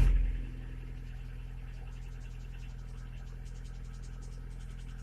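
VAZ-21126 1.6 16-valve engine dropping from its start-up rev into a steady cold idle within the first half second, with a light, fast ticking from about halfway through. The ticking is the hydraulic lifter knock on a cold engine, still there after an oil system flush.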